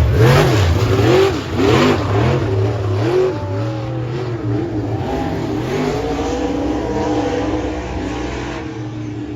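A loud motorsport vehicle engine revving hard, its pitch swooping up and down several times in quick succession over the first few seconds, then running at a steadier, gradually fading note.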